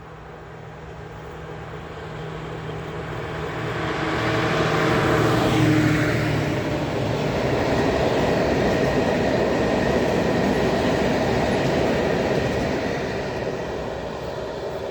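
Train passing close by: it grows louder over the first few seconds, with a falling pitch about five seconds in as the front goes past. Then a steady rolling noise of the wheels on the rails holds as the rest of the train goes by.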